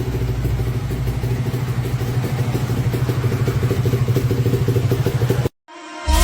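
Honda NSR SP single-cylinder two-stroke motorcycle engine running steadily at idle through its exhaust, with a fast, even pulsing beat. It cuts off abruptly about five and a half seconds in, and music starts right at the end.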